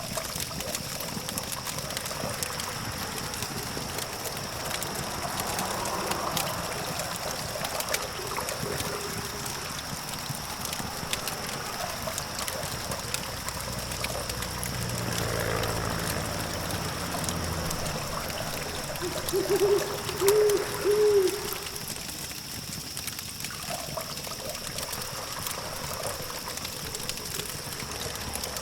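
Campfire crackling with frequent small pops over a steady hum of distant traffic and a faint steady high whine. About halfway through a vehicle swells past and fades, and a little later three short pitched toots in quick succession stand out as the loudest sound.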